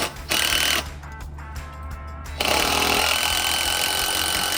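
Power drill driving screws into wooden concrete form boards and stakes: a few short bursts, then a steady longer run starting about halfway in.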